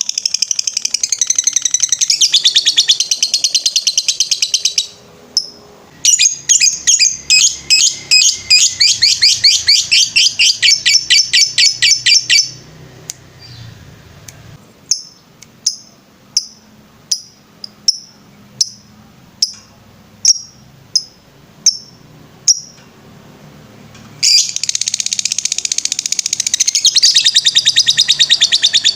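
Lovebird singing in long runs of rapid, high chirps run together (the 'ngetrek' song). The runs break off twice, and midway the bird gives single sharp chirps, about one and a half a second, before a dense run starts again near the end.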